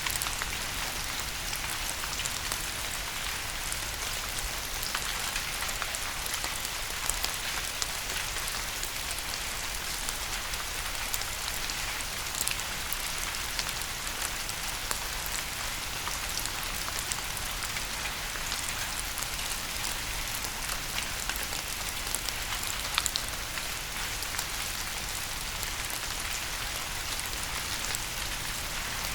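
Steady rain falling on a surface, with many individual drops pattering and clicking over a continuous hiss.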